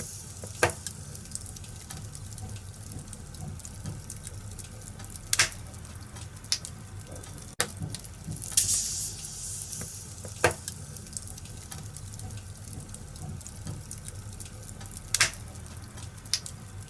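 Wood fire in a fireplace crackling, with a steady low rumble and hiss and a sharp pop every five seconds or so, plus a short hissing flare about halfway through.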